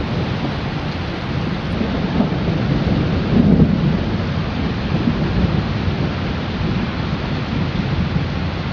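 Heavy hailstorm: a steady noise of hail and rain pelting down, with a low rumble of thunder that swells about three and a half seconds in.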